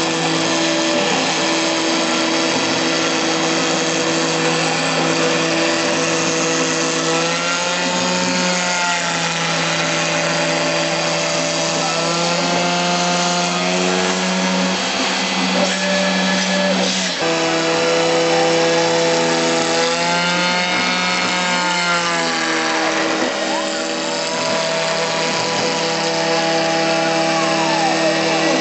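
CNC router spindle running at high speed, a carbide end mill cutting plexiglass (acrylic), with a steady whine and a cutting hiss. Over it, a whine that rises and falls in pitch every few seconds as the machine's axes speed up and slow down along the toolpath.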